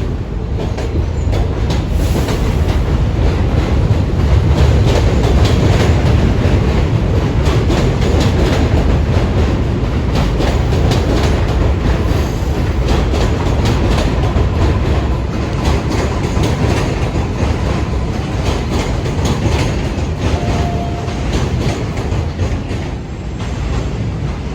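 New York City subway train running through the station, steel wheels rumbling and clacking rapidly over rail joints, loud throughout and easing slightly near the end.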